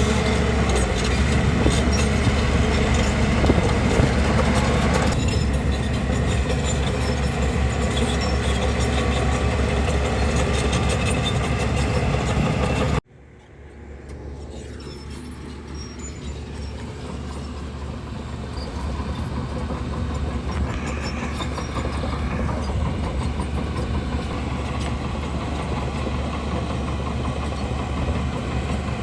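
Bulldozer's diesel engine running with its steel tracks clanking. The sound cuts off abruptly about halfway through, then comes back quieter and slowly grows louder.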